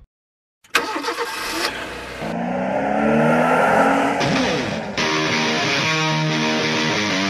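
A car engine starting up and revving, its pitch gliding up and down. Then, about five seconds in, music cuts in sharply and runs steadily.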